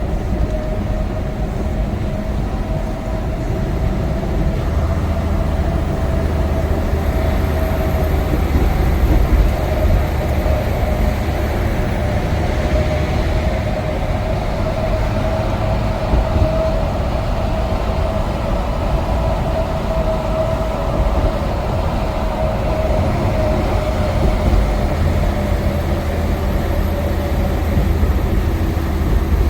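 Semi-truck cab interior while cruising: steady diesel engine drone and road noise, with a constant mid-pitched hum over the low rumble.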